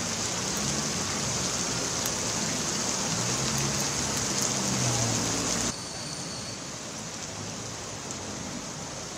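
Heavy rain falling on a flooded street, a dense steady hiss, with a low hum of vehicle engines beneath it in the first part. About six seconds in the sound cuts abruptly to quieter rain.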